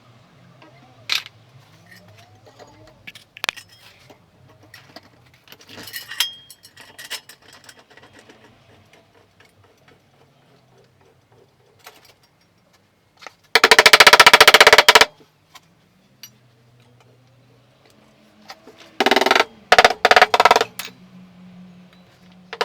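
Loud, rapid rattling bursts from a car-body repair tool: one about a second and a half long partway through, then three short bursts close together and another near the end, with faint taps and clicks in the quiet stretches between.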